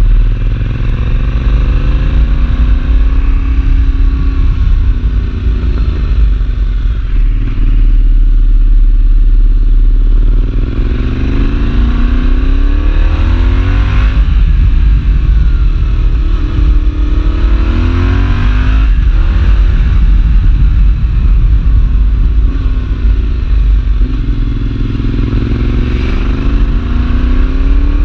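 Yamaha Tracer 7's parallel-twin engine through a full GPR aftermarket exhaust with dB-killer, riding with the revs rising and falling several times as it accelerates and shifts, over a steady low rumble.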